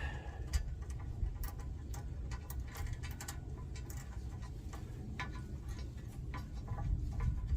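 Irregular small metallic clicks of washers and nuts being handled and fitted onto skid-plate bolts by hand, over a steady low rumble.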